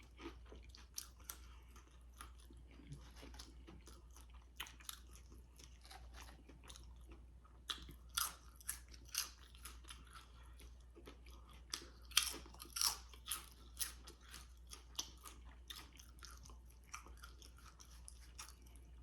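A person chewing food close to the microphone: irregular wet smacks and crunches, with louder bites around eight and again twelve to thirteen seconds in.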